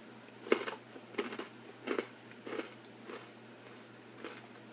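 A person chewing food close to the microphone: several short chewing sounds, about half a second to a second apart.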